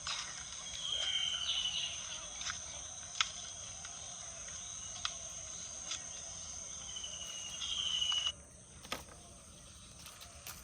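Steady high-pitched insect chorus droning without a break until it cuts off abruptly about eight seconds in. Two short whistled calls sound over it, one near the start and one just before the drone stops, along with a few sharp clicks.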